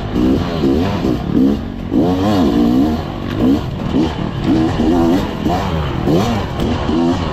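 Fantic XE300 300 cc two-stroke enduro bike engine revving up and falling back over and over, a quick rise and drop about every second as the throttle is worked on and off.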